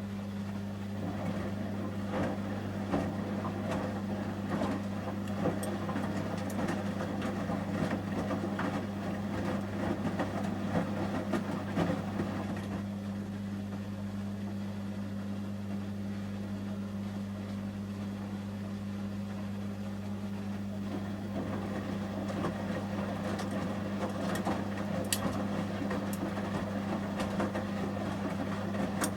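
Samsung front-loading washing machine in the heating stage of a 30 °C shirts wash: the drum tumbles the wet load with sloshing and light knocks, pauses for several seconds near the middle, then turns again, over a steady low hum.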